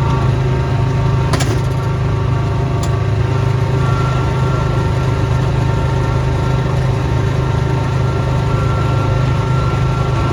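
Small engine running steadily under load while snowblowing, with a steady whine above the engine hum. Two sharp clicks come about a second and a half and three seconds in.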